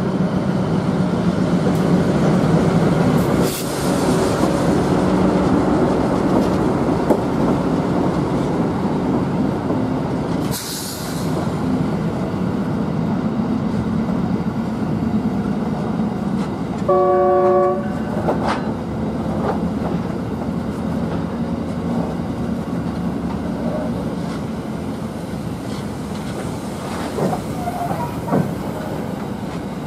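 Loaded narrow-gauge grain train passing close by: the diesel locomotives' engine rumble at first, then the grain hopper wagons rolling past with a steady rumble and occasional wheel clicks. A short horn blast sounds a little past halfway through.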